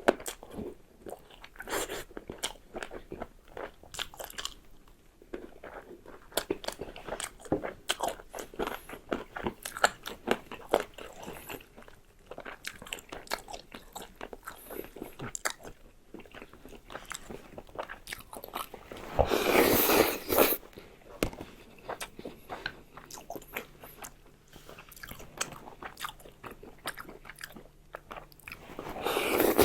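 Close-miked eating: chewing and biting, with many small clicks and smacks. A louder, longer noisy sound comes about nineteen seconds in and again at the very end.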